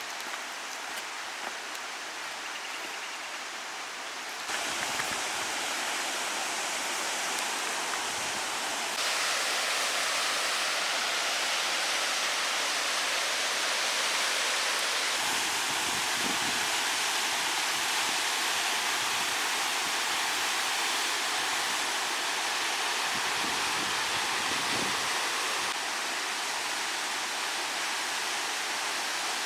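Steady rush of flowing creek water, with the level jumping abruptly up or down a few times.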